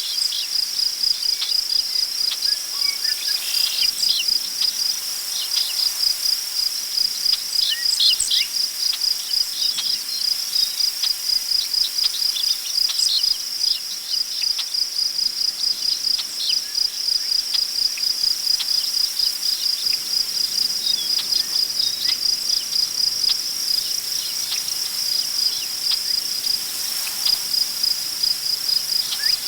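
Crickets chirping in a steady, rapid pulsing trill, with short scattered bird chirps, most of them in the first half, and a soft wind rustle in the grass beneath.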